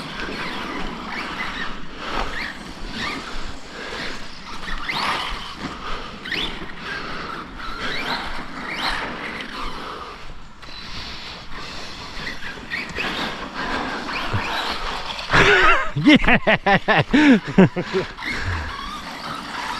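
Brushless electric RC monster trucks driving: repeated high motor whines rising and falling as they accelerate and brake. Louder voice sounds come near the end.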